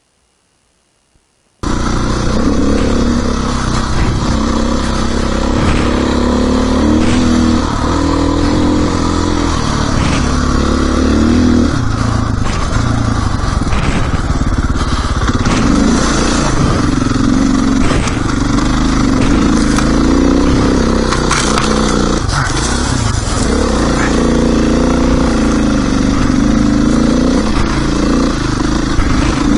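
Dirt bike engine running as the bike is ridden, its pitch rising and falling with the throttle, with scattered clicks and scrapes. It starts abruptly about one and a half seconds in after near silence.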